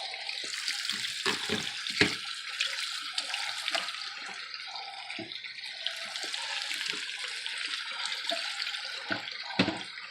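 A steady hiss like running water, with scattered soft knocks and taps as lasagna noodles are laid into a dish. The sharpest knocks come about two seconds in and again near the end.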